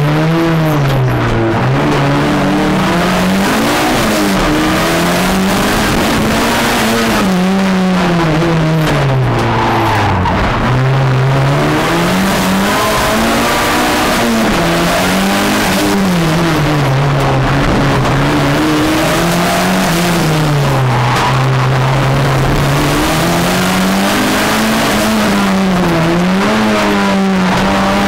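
Fiat Uno Turbo's turbocharged four-cylinder engine revving hard, its pitch rising and falling every few seconds as the driver works the throttle and gears, heard from inside the stripped race cabin.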